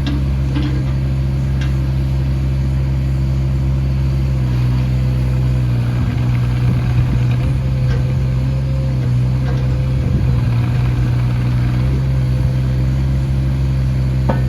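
Volvo EC18E mini excavator's diesel engine running steadily, a little louder from about four seconds in, with a few faint clicks.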